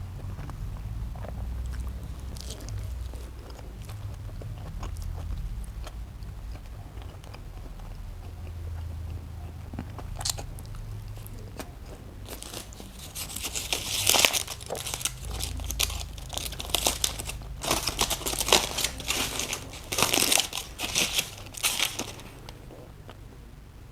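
Close-miked chewing of a cheeseburger, soft and wet at first, then, about halfway through, a long run of loud, crisp crackling that stops shortly before the end.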